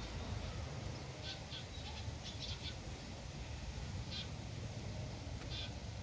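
Outdoor ambience: scattered short, high bird chirps, several in a cluster a couple of seconds in and single ones later, over a steady low rumble.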